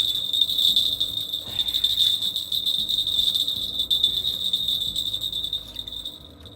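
A steady, high-pitched chirring whine over a low background rumble, easing off slightly near the end.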